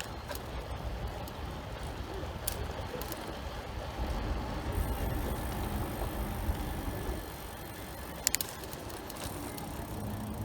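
Riding noise from a road bike on a city street: a steady rush of wind and rolling sound, with a few short sharp clicks, the loudest a quick double click about eight seconds in.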